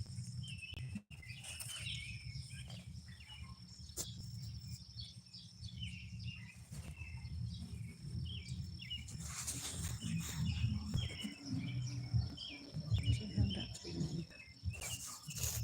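Small birds chirping repeatedly over a steady high insect trill, with a low rumble and a few clicks. About nine seconds in, and again near the end, there is a rustling noise.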